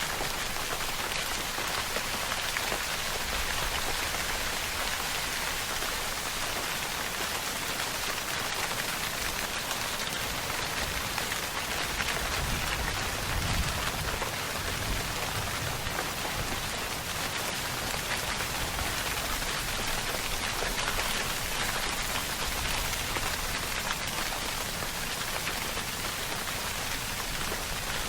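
Steady rainfall: a dense, even patter of drops on a surface, unchanging in level.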